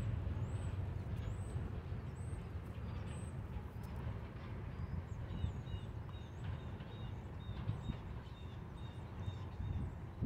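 Birds chirping over a steady low rumble. A high chirp repeats about every two-thirds of a second for the first few seconds. From about halfway in, a quicker run of shorter, lower chirps takes over.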